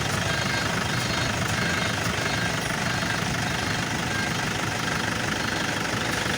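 Toyota Innova's engine running with the steering held at full lock, the power steering under strain giving a steady rattly drone with a faint high whine. The mechanic puts the squeak and hum down to power steering fluid (ATF) whose viscosity has likely worn out.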